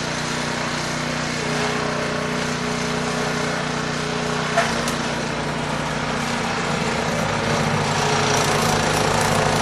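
Engine of a snow-clearing machine running steadily, with a single sharp click about halfway through and a little louder near the end.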